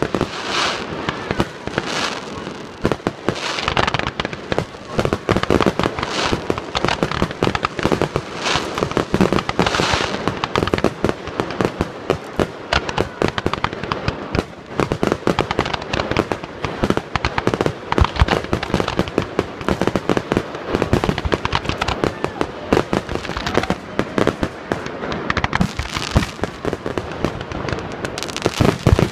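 Large fireworks display: a dense, unbroken run of bangs and crackles as shells and rising shots burst one after another.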